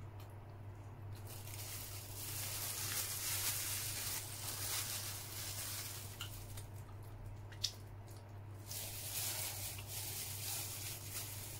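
Close-up chewing of a soft cream-filled bun: wet, squishy mouth sounds in two long stretches, with one sharp click about seven and a half seconds in.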